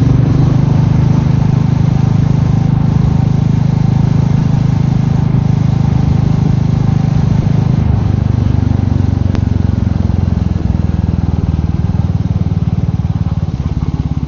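Royal Enfield Meteor 350's single-cylinder engine running steadily while riding, its note changing about eight seconds in.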